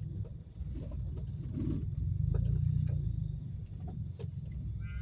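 Ambulance engine running with a steady low rumble. A row of quick, high electronic beeps stops about half a second in, and a few faint knocks sound over the rumble.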